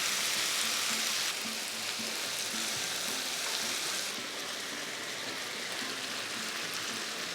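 Chicken and vegetables with gochujang sauce sizzling in a large frying pan, a steady hiss that grows quieter about a second in and again about four seconds in.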